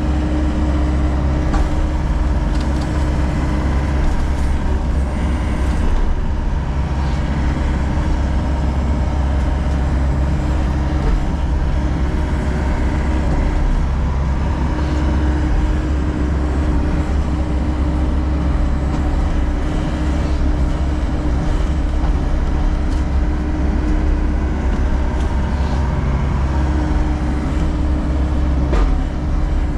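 John Deere 60G compact excavator running steadily as it works, its diesel engine loud and even, with a steady whine that cuts out and comes back a few times.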